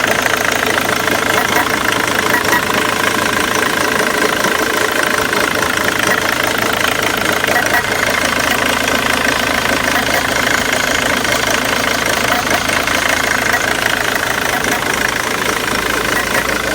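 2006 Ford Mondeo 2.0 TDCi's four-cylinder common-rail turbodiesel idling steadily. It has the rough idle that the owner posted it for.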